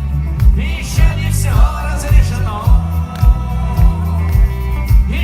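Rock band playing live: a steady kick drum about twice a second under bass and guitar, with a male voice singing a phrase through the middle.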